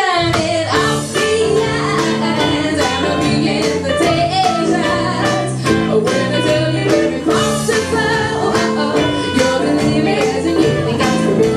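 Live band playing an upbeat song: guitars and a steady drum beat, with singing over it.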